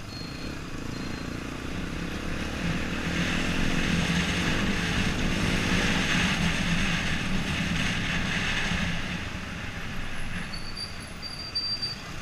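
Yamaha XTZ 125's single-cylinder four-stroke engine pulling up through the revs for the first few seconds, holding, then easing off. A rushing noise swells along with it in the middle.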